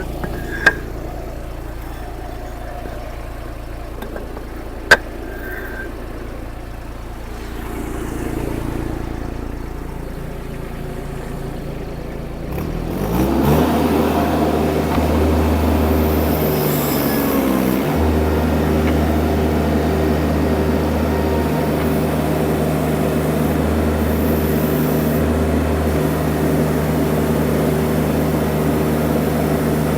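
Baumalight TRL620D mini skid steer's engine idling, with a sharp click about 5 seconds in. About 13 seconds in, it is throttled up to a steady higher speed to lift a pallet of concrete blocks, about 660 pounds, on its forks.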